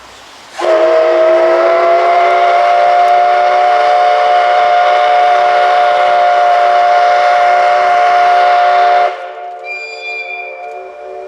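Steam locomotive whistle of the SL Ginga (JNR Class C58 locomotive), sounded in one long blast of several tones together. It comes in about half a second in, rises slightly in pitch as it opens, holds steady for about eight seconds and cuts off abruptly, leaving fainter tones hanging afterwards.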